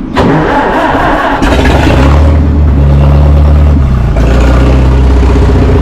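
Farmall tractor engine being started on choke: it cranks roughly for about a second, then catches and runs steadily.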